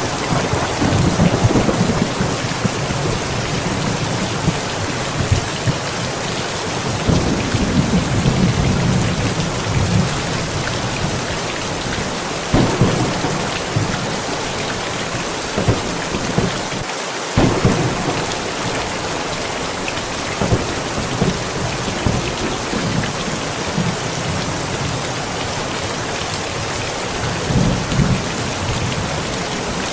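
Heavy steady rain with thunder rumbling again and again. There are low swells near the start, about a quarter of the way in, twice around the middle with sharper cracks, and near the end.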